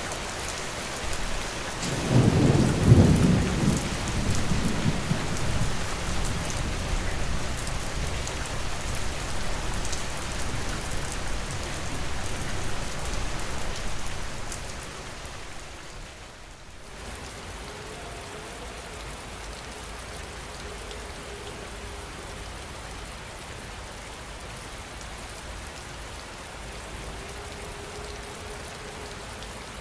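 Heavy rain falling steadily, with a thunderclap about two seconds in that rolls on as a rumble for about ten seconds before dying away, leaving the rain alone and quieter.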